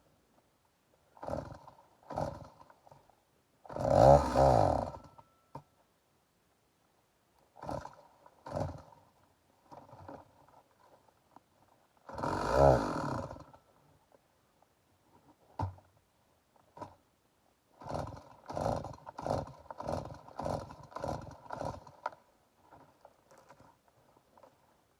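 Stihl MS 290 two-stroke chainsaw being pull-started over and over: it fires and runs for about a second before dying, about twelve seconds in, with weaker sputters and pulls between and a quick run of short pulls near the end. The saw will not stay running, a starting fault the owner can't explain.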